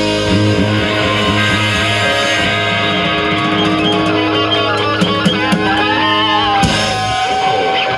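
Live rock band playing with electric guitars, with a sharp hit about seven seconds in.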